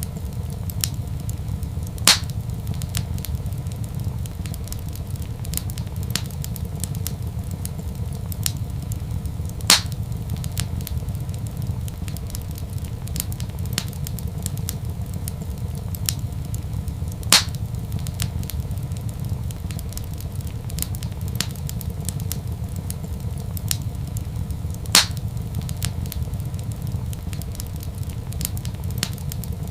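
Wood fire crackling in a fireplace: many small ticks and snaps, with four louder pops spaced about seven and a half seconds apart, over a steady low rumble.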